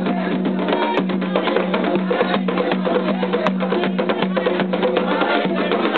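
Afro-Brazilian ritual music for Xangô: fast, dense hand-drum strokes with sharp wood-block-like clicks over group singing that holds long notes.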